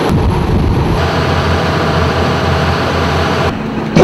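Fast attack boat's engines running at speed, a steady low engine drone under rushing wind and water noise, which eases near the end.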